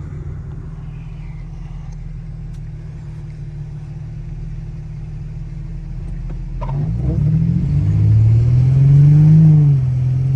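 Infiniti G35's VQ35HR V6 idling steadily, then revving hard as the car accelerates from about seven seconds in. The pitch climbs, drops at a gear change, and climbs again.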